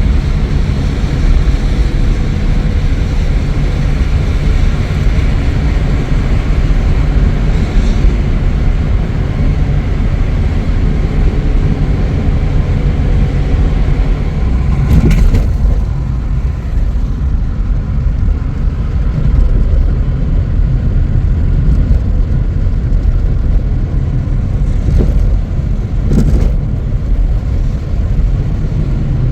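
Car driving, a steady low rumble of engine and road noise, with a few brief knocks.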